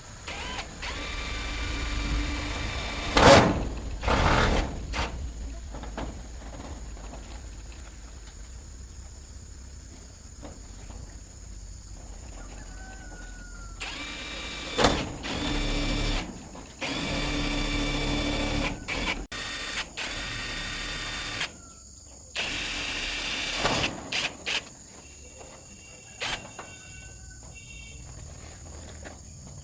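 A power tool running in several bursts of one to three seconds, each with a steady whine. A few loud knocks come between the bursts.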